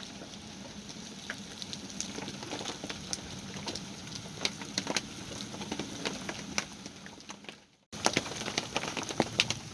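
Rain pattering on a sailboat's deck and cabin top: a steady hiss with many sharp, irregular drop hits. It fades away briefly near the end, then comes back with louder, denser hits.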